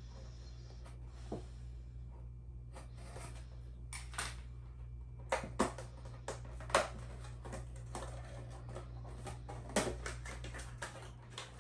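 Cardboard product boxes and packaging being handled and opened: a run of short clicks, taps and scrapes that thickens about four seconds in, over a steady low hum.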